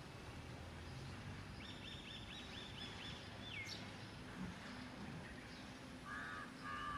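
Birds calling over steady background noise: a quick run of repeated high chirps ending in a falling note about two seconds in, then two short double calls near the end.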